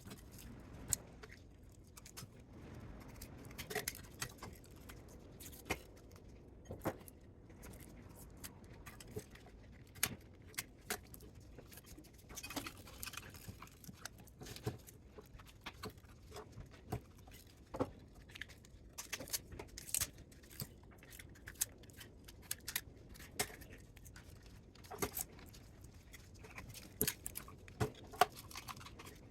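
Irregular light metallic clicks and clinks of small metal parts and tools being handled while a spot welder is taken apart by hand, with a few sharper knocks near the end.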